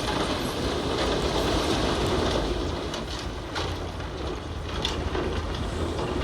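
Bulldozer working: a steady engine rumble with irregular metallic clanks and knocks from the tracks and rock.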